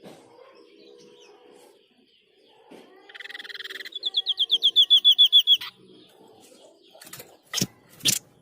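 White-breasted babbler song: a buzzy rattle about three seconds in, then a fast run of about a dozen sharp, down-slurred notes lasting a second and a half that stops abruptly. Two sharp clicks follow near the end.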